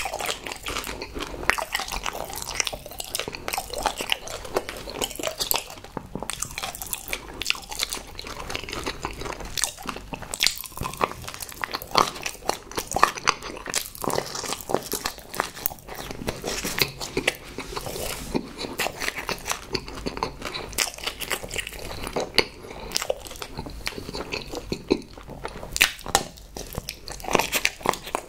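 Close-miked chewing and biting of chocolates and chocolate-coated marshmallows: chocolate crunching between the teeth in dense, irregular clicks and mouth sounds throughout.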